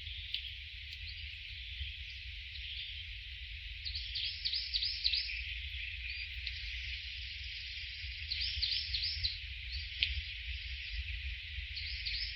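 A bird calling in quick runs of about five short arching chirps, repeating every few seconds, over a steady high drone of insects. A low rumble runs underneath.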